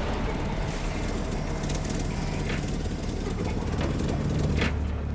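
A police car's engine idling steadily, with a single short click near the end.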